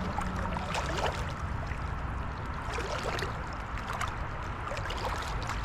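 Legs wading through creek water: irregular sloshing and splashing, over a steady low rumble.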